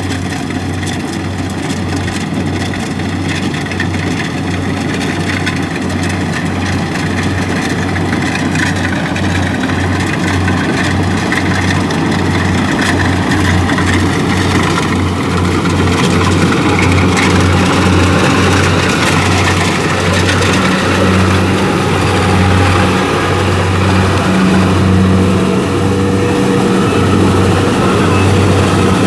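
Kubota DC-70 combine harvester's diesel engine running steadily, growing gradually louder, with a higher steady tone joining in about twenty seconds in.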